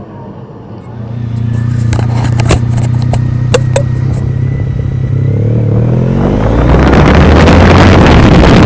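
Motorcycle engine running steadily, with a few light clicks, then revving up as it pulls away; wind rush builds on the microphone near the end.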